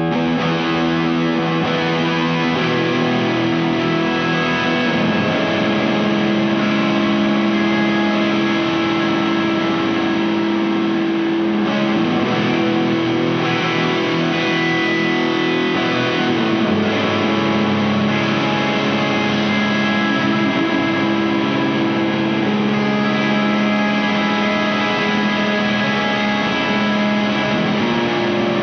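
Distorted electric guitar played through a rat-style drive pedal into a Caline Barn Owl reverb pedal set for lots of reverb. Notes and chords are held for several seconds each and blur into a dense, washy wash of sound.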